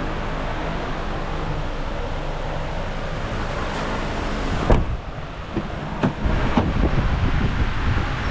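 2020 Cadillac XT4's 2.0L turbocharged four-cylinder engine idling steadily. About halfway through there is a sharp thump, after which wind noise buffets the microphone.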